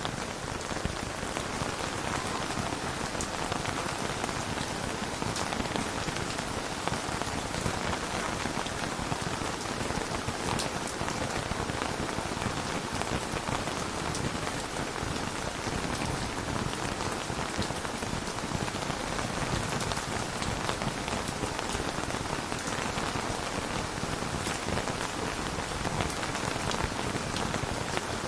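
Steady rain falling on a surface, an even hiss of drops with faint scattered ticks of individual drops.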